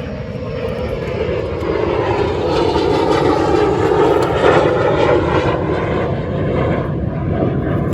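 A loud, steady rushing drone that swells to its loudest about four seconds in, then eases off a little.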